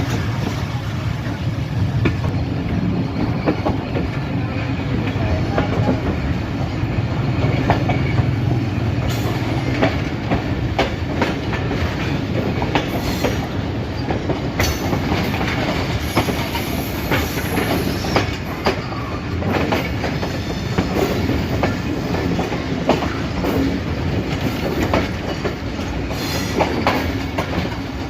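Passenger train rolling on the rails, its wheels clacking over rail joints and points in frequent sharp clicks, with a steady low rumble and a faint wheel squeal, as it runs into a station.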